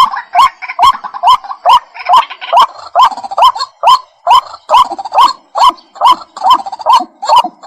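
White-breasted waterhen calling: a long, unbroken run of short, rising notes, a little over two a second.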